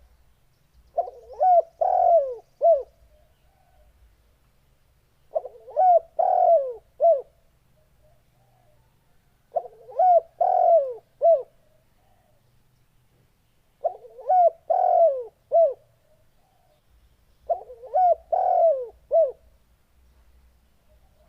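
Spotted dove (tekukur) cooing. It repeats a short phrase of four or five coos about every four seconds, five phrases in all.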